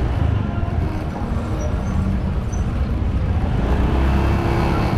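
Motorbike ride noise: continuous wind buffeting on the microphone over the bike's engine and road noise.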